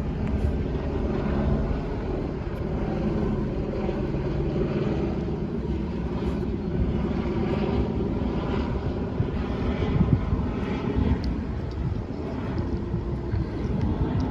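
Chevrolet 454 big-block V8 truck engine idling steadily, a low, even running sound with small swells in loudness.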